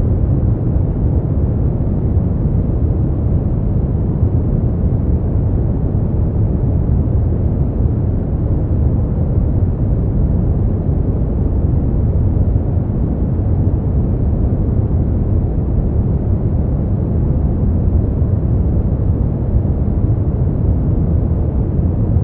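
Steady sleep-aid noise, sold as white noise but heavy in the bass with little hiss, heard as a deep, even rumble that does not change.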